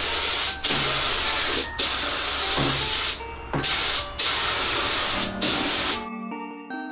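Clear coat being sprayed onto car body paintwork: a loud hiss in a series of passes about a second long with short breaks between them, stopping about six seconds in. Soft background music follows.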